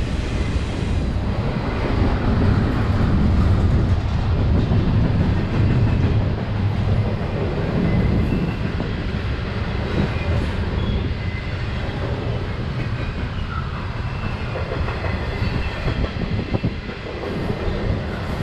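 Freight train's cars rolling past in a steady low rumble, with scattered clicks of wheels over the rail.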